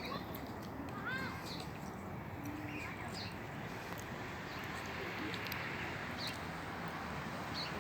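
A flock of birds giving short, scattered chirps and calls over steady background noise.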